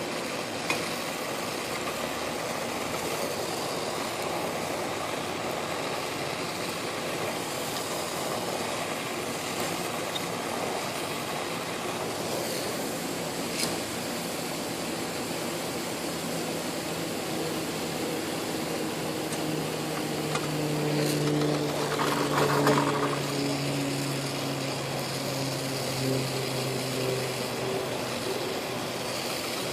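Brazing torch flame hissing steadily during the compressor change-out. About sixteen seconds in, a low hum with overtones comes in, is loudest around twenty-two seconds, then fades.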